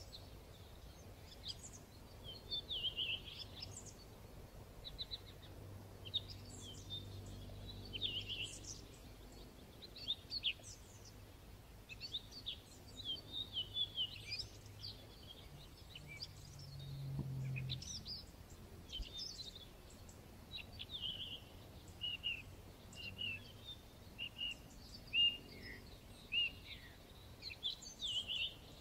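Small birds singing and chirping throughout, short high phrases and trills overlapping over a faint background hiss. A low hum swells and fades a little past the middle.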